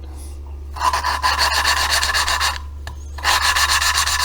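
Valve being hand-lapped into its seat in a KTM four-stroke cylinder head with valve lapping paste, a gritty back-and-forth rasp. It comes in two spells, starting about a second in and again after a short pause.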